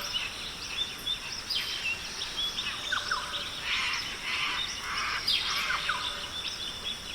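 Rainforest ambience: many birds chirping and giving short falling whistles over a steady high-pitched drone.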